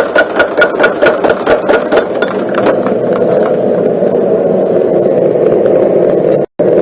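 Homemade mechanical forging hammer striking hot steel in a fast, even rhythm of about five ringing blows a second, stopping about two seconds in while its motor keeps running steadily.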